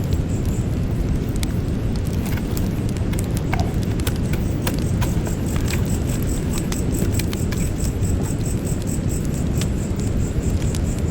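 Campfire burning: a steady low rumble of the flames with frequent, irregular sharp crackles and pops from the burning wood.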